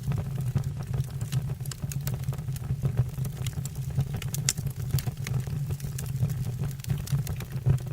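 Wood fire burning in a fireplace: a steady low rumble of the flames with frequent irregular sharp crackles and pops of burning logs.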